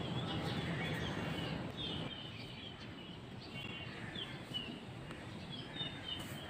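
Birds chirping: many short, quick calls scattered through, over a steady background of outdoor noise.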